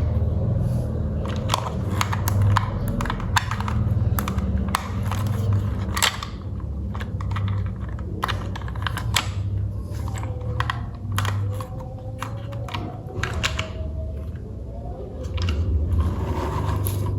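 Irregular clicks and taps from handling the toy train set, over a steady low hum.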